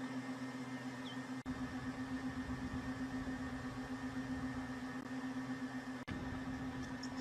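A steady low mechanical hum over a faint hiss, cut off for an instant twice.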